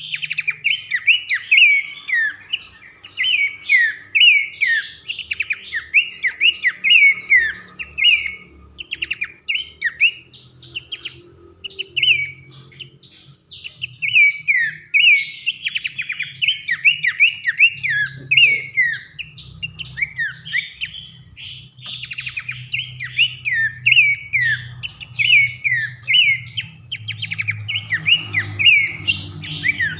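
Pelanduk semak (Horsfield's babbler) singing a fast, continuous string of loud, shrill whistled notes that each drop sharply in pitch, mixed with chattering.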